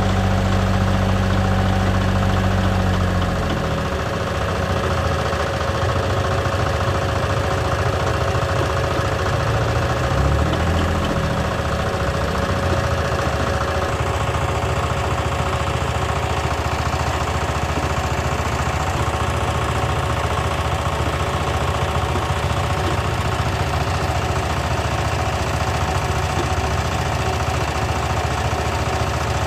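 Tractor engine running, its pitch dropping about four seconds in and rising and falling briefly around ten seconds, with a steady whine running alongside.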